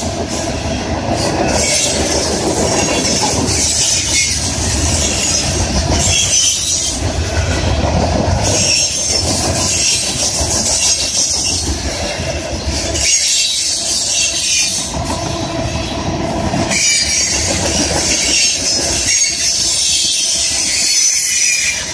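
Freight train of covered hoppers and tank cars rolling past close by: steel wheels clattering over the rails, with a high squeal running through it.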